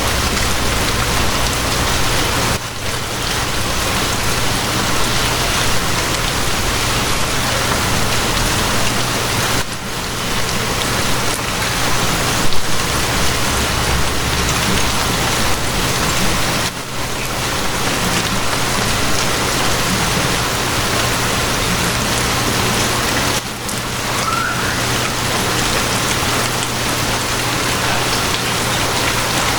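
Steady rain falling, an even rushing hiss, with a low steady hum underneath. The level dips briefly about every seven seconds.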